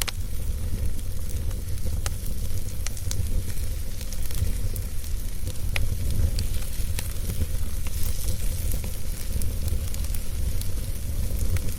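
Wood fire burning in a fireplace: a steady low rumble and hiss with scattered crackles and a few sharper pops.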